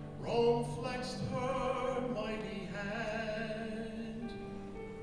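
Singing in a classical, operatic style with musical accompaniment, the voice holding long notes.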